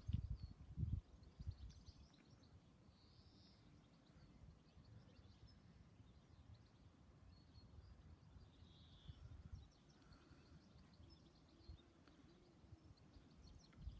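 Near silence: faint outdoor background with low rumbling in the first second or so and a couple of faint bird chirps.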